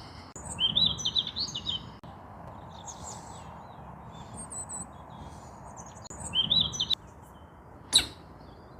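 Songbirds singing, two bursts of quick, chirping phrases with scattered high chirps between, over a steady outdoor hiss. A single sharp click comes near the end.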